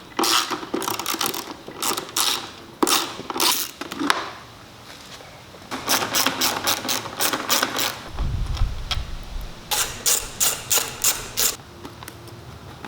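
Hand socket ratchet clicking in repeated runs of quick strokes as bolts are loosened by hand, with pauses between runs. A short dull thump a little past the middle.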